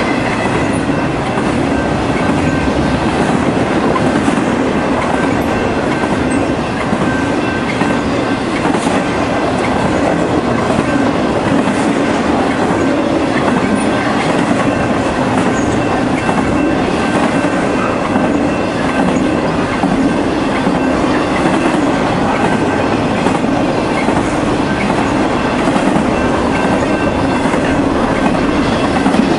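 Freight cars carrying highway trailers rolling steadily past at speed, the wheels rumbling and clacking on the rails without a break.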